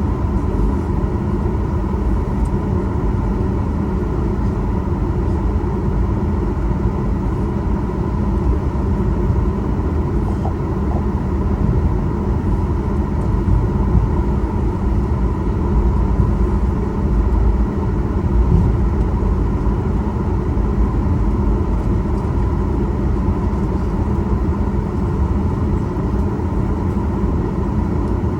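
Cabin noise inside a Boeing 737 MAX 8 taxiing after landing: a steady low rumble with a faint steady hum from the CFM LEAP-1B engines at idle.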